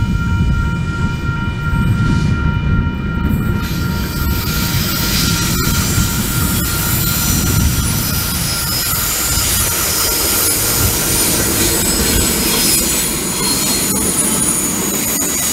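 Two NR class diesel-electric locomotives hauling a stainless-steel passenger train approach and pass, with a heavy low engine rumble throughout. From about four seconds in, steel wheels on the curved track add a rising rail noise with a thin high squeal.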